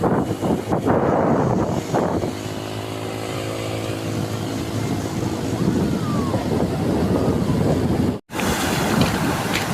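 A motor engine running steadily, with wind on the microphone and surf noise around it. The sound cuts out for a moment near the end.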